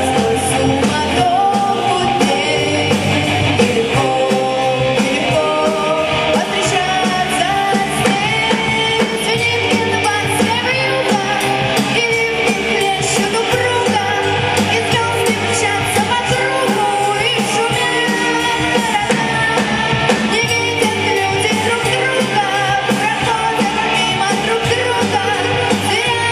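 A vocal-instrumental band playing a song live, with a singer over a steady beat.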